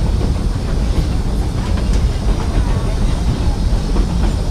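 Narrow-gauge excursion train rolling along the track, heard from aboard the cars: a steady rumble of wheels on rails with faint clacks.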